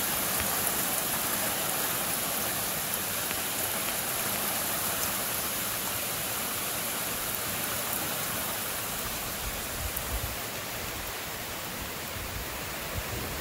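Heavy summer rain shower pouring steadily onto trees and a lawn, a dense even hiss of rain. A low rumble creeps in over the last few seconds.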